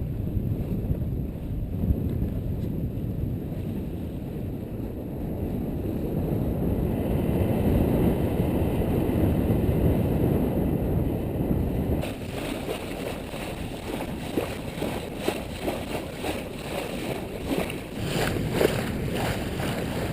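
Wind buffeting the microphone on a sailing yacht under way, a steady low rumbling noise. About twelve seconds in it changes abruptly to a brighter, crackling wash of wind and water.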